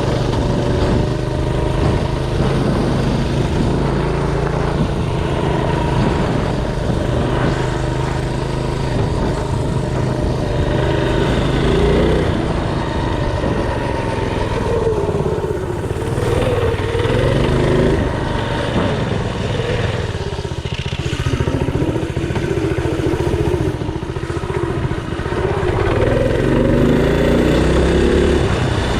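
Mini bike engine running as the bike is ridden, its pitch rising and falling repeatedly as the throttle is worked.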